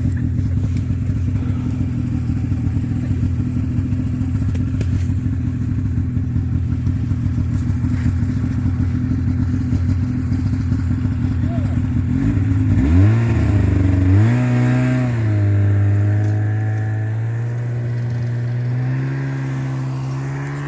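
Snowmobile engine idling steadily, then revved up and down about twelve seconds in, settling into a steady higher running note that fades a little near the end.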